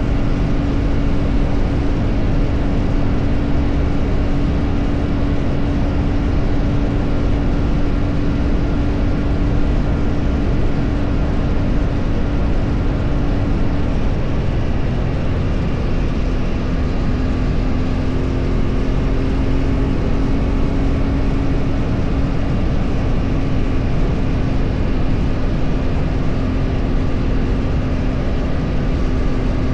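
A vehicle on the move, heard from on board: a steady engine drone over road and wind rumble. The engine note drops slightly about halfway through, then holds steady again.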